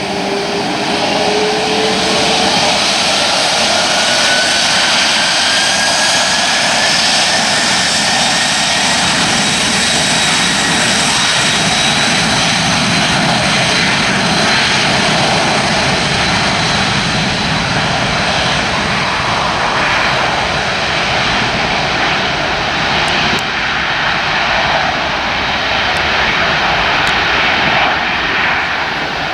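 Jet engines of a Boeing 767-300ER airliner running loud and steady, with a whine that rises in pitch over the first several seconds.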